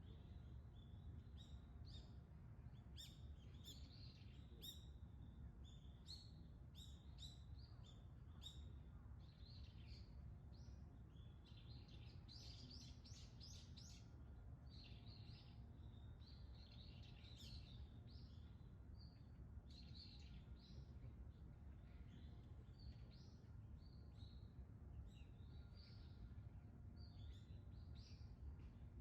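Faint chorus of small birds chirping, many short high calls coming thick and fast, busiest around the middle, over a low steady rumble.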